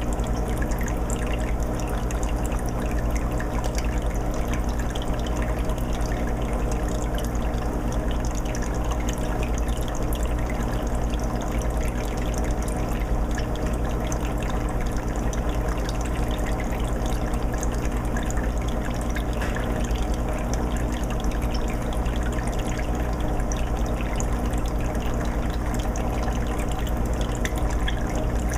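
Aquarium water filter running on a 20-gallon tank: water trickling and splashing steadily back into the tank with a fine patter of drips and bubbles, over a steady low hum.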